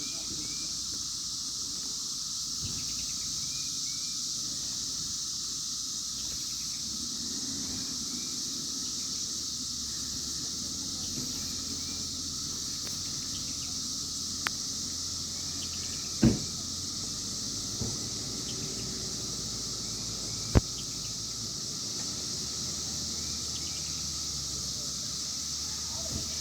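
A steady, high-pitched chorus of insects buzzing. A few sharp knocks break in, about halfway through and again a few seconds later.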